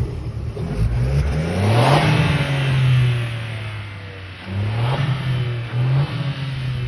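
Volkswagen up! GTI's three-cylinder turbo engine, on its stock exhaust with a Forge intake, being revved. It climbs about a second in and holds for a second or two before dropping back, then gets two shorter revs near the end.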